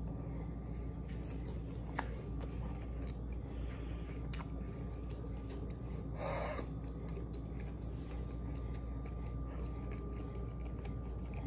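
A person chewing a mouthful of pot pie with its baked crust, soft mouth clicks and smacks, with a brief breathy noise about six seconds in. A steady low hum runs underneath.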